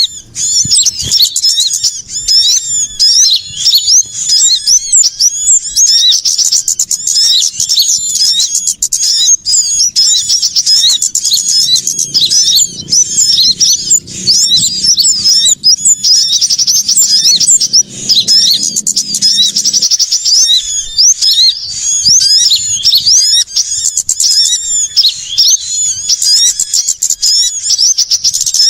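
A dense, continuous chorus of many small songbirds: rapid, high-pitched chirps and twitters overlapping without a break. It is a mixed small-bird lure recording, played to draw small birds in.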